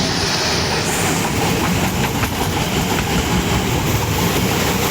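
A train passing close by: a loud, steady rumble of its wheels running on the rails, with faint repeated clacks.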